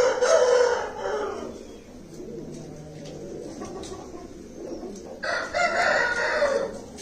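Parrot-beak Aseel rooster crowing twice, one crow right at the start and a second about five seconds later.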